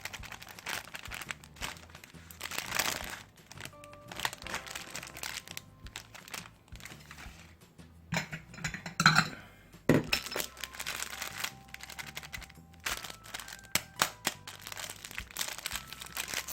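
Crinkling and crackling handling noises with many sharp clicks, over soft background music; the loudest burst comes about nine seconds in.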